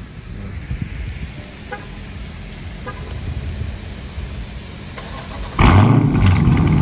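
Dodge Charger Scat Pack's 392 HEMI V8 with its mid-mufflers deleted, started up: after a low background rumble and two faint beeps, it fires about five and a half seconds in with a sudden loud flare from the exhaust.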